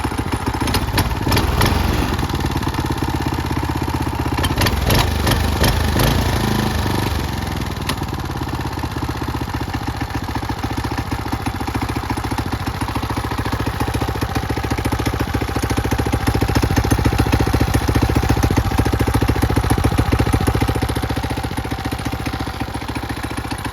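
Mitsubishi GT600 6 hp small engine running steadily at idle, with a few sharp knocks and clatter in the first several seconds. It gets a little louder for a few seconds past the middle.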